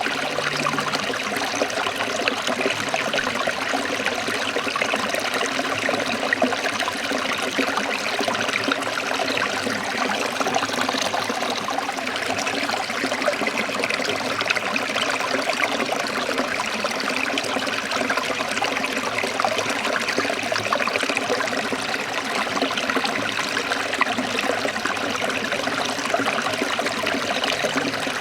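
Stream water trickling and splashing over rocks, a steady, unbroken rush.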